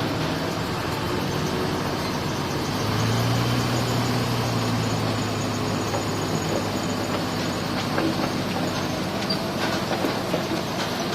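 Heavy diesel earthmoving machinery running: a steady engine drone that strengthens about three seconds in, under a continuous mechanical clatter and rumble.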